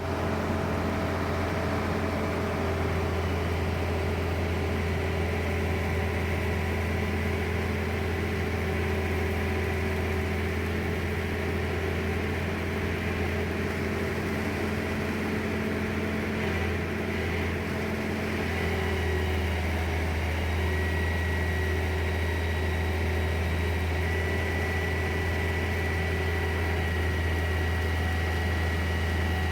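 Lorry engine running steadily at idle with a constant low hum; its note shifts slightly about two-thirds of the way through.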